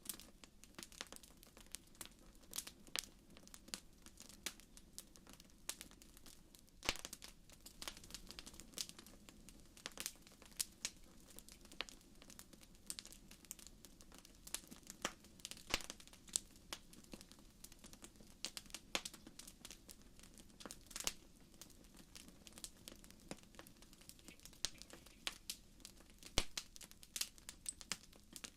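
Wood fire burning in a fireplace, crackling with irregular sharp pops and snaps over a soft low hiss of the flames.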